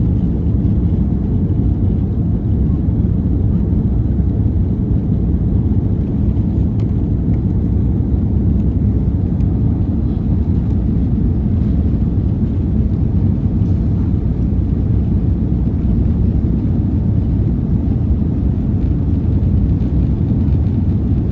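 Steady low rumble of an Airbus A330-200 airliner, even in level throughout with no rising engine note.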